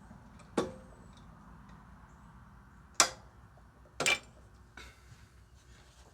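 Hand tools knocking and clanking on metal: three sharp clanks, the last a quick double, the second the loudest.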